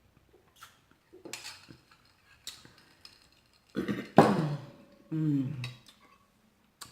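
A person burps loudly about four seconds in, followed by a shorter low vocal sound that falls in pitch. Faint clicks from eating come before it.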